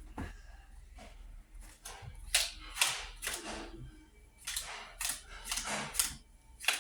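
Playing cards being dealt down onto a table one at a time: a run of about nine short, light slaps, starting about two seconds in.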